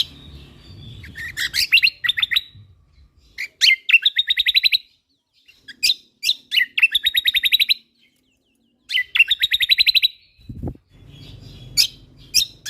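Kecial kombok (cucak kombo) songbird singing in repeated bursts: each phrase opens with a few sharp whistled notes and runs into a fast, even trill, four phrases with short pauses between. A brief low thud comes a little past halfway.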